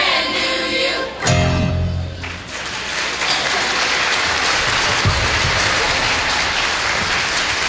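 A group of singers with backing music finishes a song on a final chord about two seconds in, and an audience then applauds steadily.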